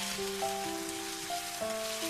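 Background music of held, stepping notes over the steady hiss of minced chicken sizzling in oil in a frying pan as it is stir-fried.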